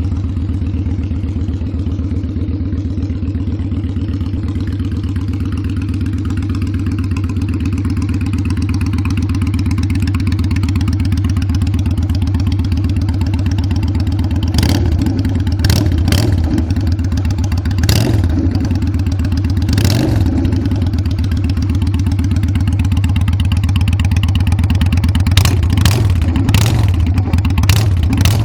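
Honda Steed 600 V-twin motorcycle engine running at idle through its exhaust, a deep steady rumble. From about halfway on the throttle is blipped in short revs, single ones at first and then several in quick succession near the end.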